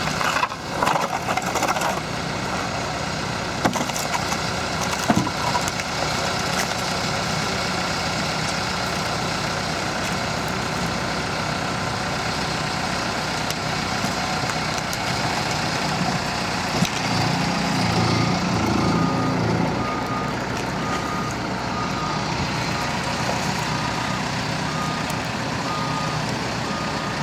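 Heavy road-works vehicle engine running steadily, swelling in the middle; in the second half a reversing alarm begins sounding even, repeated beeps as the machine backs up.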